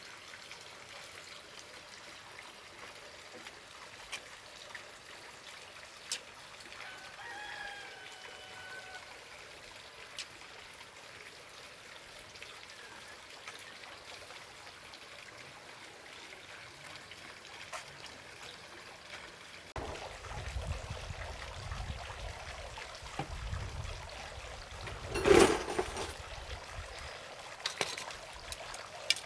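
Steady trickle of running water, with a short chicken call about seven seconds in. From about twenty seconds in there is a low rumble, and a loud short thump comes near the end.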